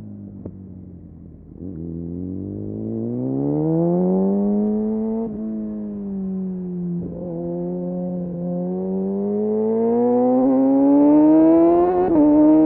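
Kawasaki Ninja motorcycle engine through an Arrow exhaust with its dB killer removed, accelerating. The engine is low at first, then the revs climb from about two seconds in. The pitch drops twice in the middle, at the gear changes, and the engine pulls steadily higher toward the end.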